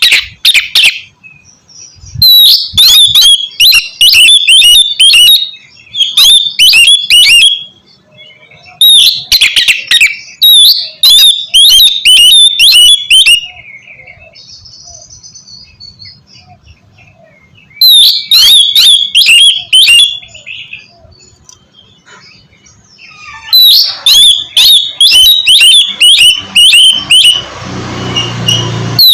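Oriental magpie-robin (kacer) singing loud phrases of rapid, repeated, sharp high notes, each a few seconds long with pauses between. A hiss comes in under the song near the end.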